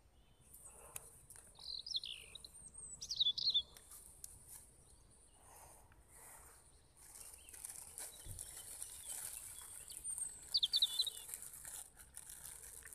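Wild birds calling in three short bursts of warbling chirps, one near the start, one just after, and one near the end, over a steady high-pitched hiss.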